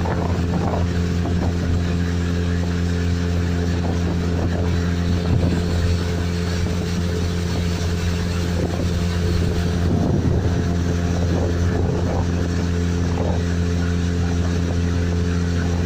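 Outboard motor running at a steady speed with the boat under way, its pitch holding constant, over a hiss of water and wind.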